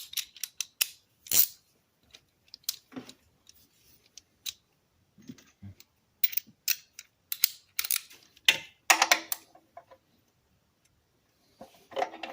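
Metal hand tools clinking and tapping in irregular sharp clicks, with a quicker run of clicks a little before the end.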